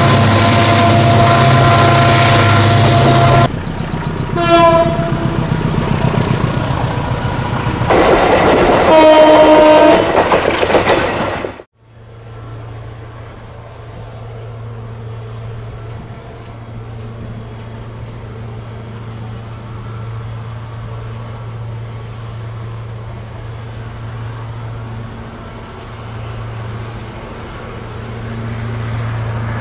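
Diesel locomotive horn: a long loud blast, a short toot about four seconds in, and another blast from about eight to eleven seconds in. The sound then cuts off suddenly, and a locomotive's engine runs on with a steady low drone, much quieter.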